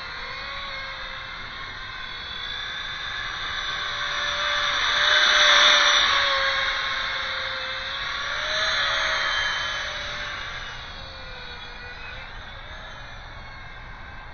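Electric ducted fan of a 3D-printed thrust-vectoring drone whining steadily, with a slightly wavering pitch. It swells loudest about five to six seconds in, swells again near nine seconds, then fades.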